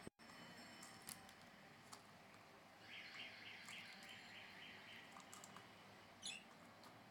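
Budgie chirping faintly: a quick run of short, evenly repeated chirps a little under halfway through, and one sharper single chirp near the end, with a few soft clicks between.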